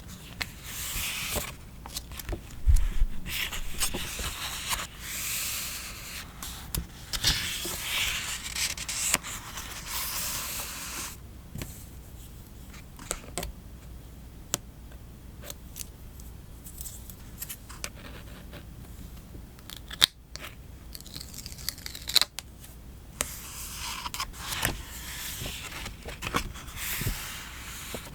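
Close-up sounds of paper craft: scissors cutting paper and stickers being peeled and handled, with rustling and scraping. The rustling comes in stretches near the start and again near the end, with scattered small clicks and taps in a quieter stretch between.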